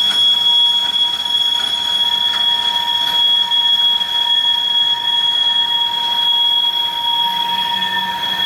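Empty coal hopper cars rolling past, with a steady high-pitched wheel squeal held at a couple of pitches throughout, over the rumble and clicking of the wheels.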